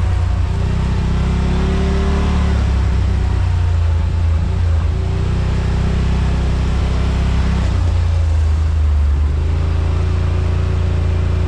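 Side-by-side UTV engine and drivetrain running steadily while driving, a loud low drone that shifts a little in pitch partway through.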